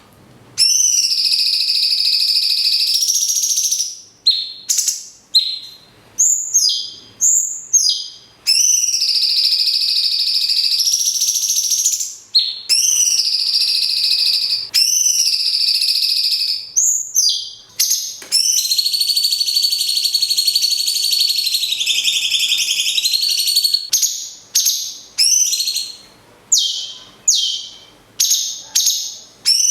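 Recorded songs of a cucak cungkok and a lovebird: four long, steady, high chattering trills of three to five seconds each, with runs of short, sharp notes between them and a quick series of notes near the end.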